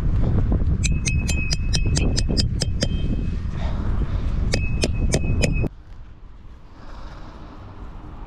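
Strong gusting wind buffeting the microphone, with two runs of rapid ringing metallic clinks, about six a second. The wind noise drops away suddenly about six seconds in.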